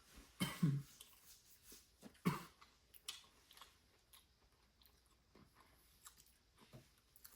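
Chewing of crunchy, chip-like dried carne seca, with a few louder crunches in the first couple of seconds and then softer, scattered chewing.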